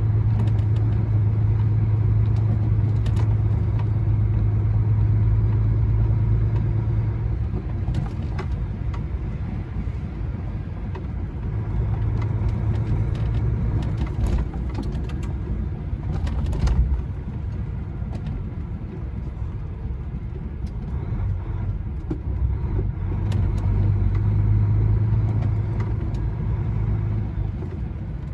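Heavy lorry's diesel engine heard from inside the cab, droning steadily under load, easing off about seven seconds in and pulling strongly again twice. A few light knocks and rattles come through over the road noise.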